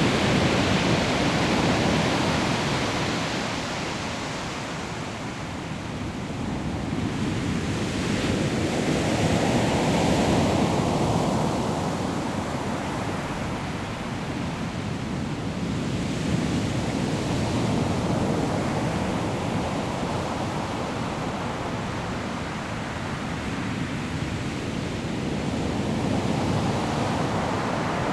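Sea waves breaking and washing on a pebble shore, a steady rush of surf that swells and eases in slow surges every several seconds, with wind on the microphone.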